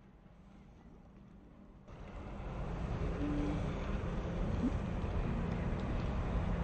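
A boat's motor running with a steady low rumble and hum, cutting in suddenly about two seconds in after a quieter start.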